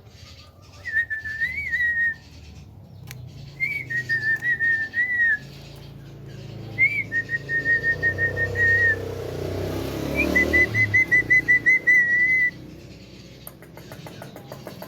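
Pet Javan myna whistling four phrases, each a short upslurred note followed by a fast trilled run held on one pitch, with pauses between them.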